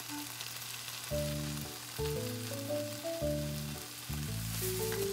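Chicken breast sizzling steadily as it fries skin-side down in a frying pan, with background music playing over it.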